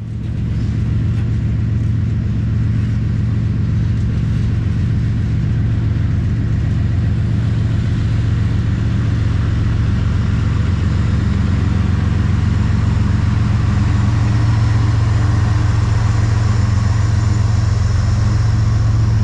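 An engine running steadily with a deep, even hum that grows slightly louder toward the end.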